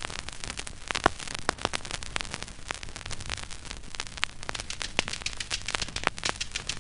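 Vinyl record surface noise in the silent groove between tracks: a steady hiss with many clicks and pops at uneven spacing from dust and wear on the disc.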